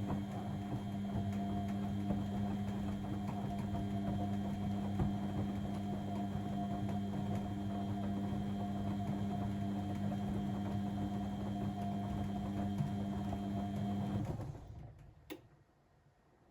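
Blomberg WAF 7442 SL washing machine's motor running with a steady hum, then stopping about 14 seconds in. Two short clicks follow near the end.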